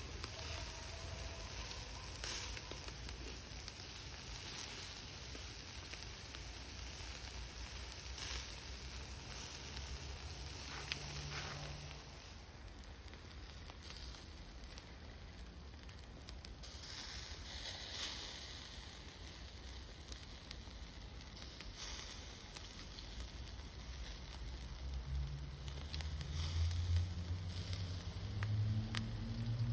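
Food sizzling in a pan over a cooking fire: a steady hiss with scattered crackles, and a low rumble coming in near the end.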